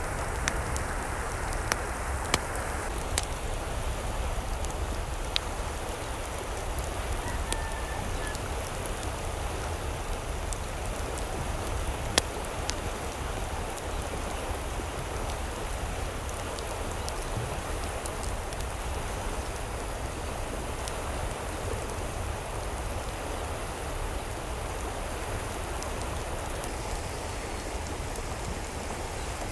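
Steady rushing water, an even hiss throughout, with a few sharp ticks scattered over the first seconds and a louder one about twelve seconds in.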